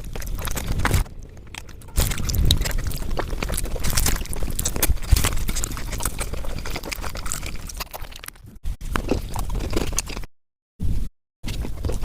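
Close-miked chewing and crunching of food, a dense run of irregular wet clicks and crackles. The sound cuts out to total silence twice, briefly, near the end.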